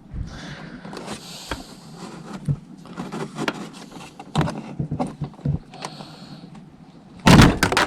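Plastic tail-light assembly and its trim clips being pulled out by hand: scattered clicks, creaks and scrapes. Near the end comes a loud clatter as a part drops to the floor.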